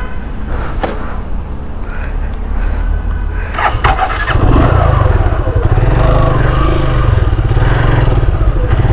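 Motorcycle engine running, getting louder about four seconds in as the bike pulls away.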